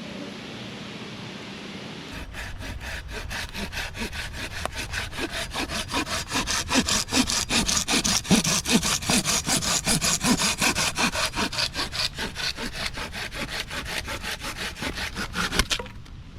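A Silky folding handsaw cutting through a log by hand in fast, even back-and-forth strokes. The strokes start about two seconds in, get louder through the middle, and stop suddenly near the end as the cut goes through.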